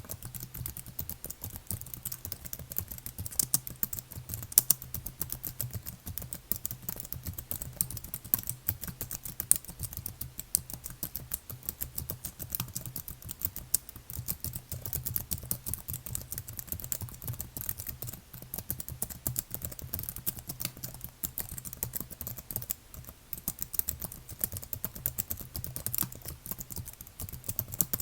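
Typing on a computer keyboard: a dense, continuous run of key clicks with no pauses, over a steady low hum.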